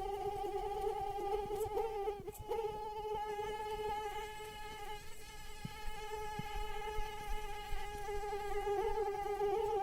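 Female mosquito in flight, its wings giving a steady high-pitched whine that wavers slightly in pitch and briefly dips a little over two seconds in.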